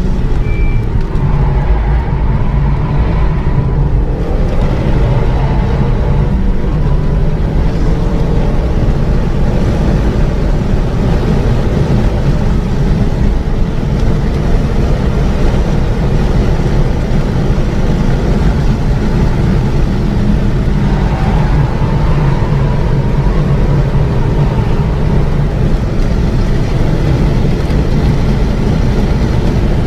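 Renault Mégane 3 RS Trophy's turbocharged 2.0-litre four-cylinder engine driven hard at lap pace, loud and steady, over dense road noise, with the engine note rising and falling in places through gear changes and throttle.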